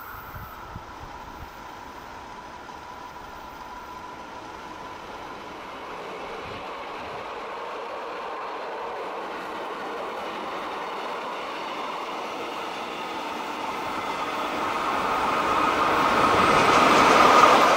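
Rhaetian Railway Ge 4/4 I electric locomotive no. 605, hauling a train of historic coaches, approaching. Its running noise on the rails grows steadily louder as it comes close, with a faint steady high whine underneath.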